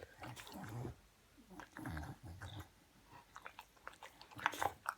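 Olde English Bulldog chewing a piece of banana, with irregular wet smacking and mouthing sounds.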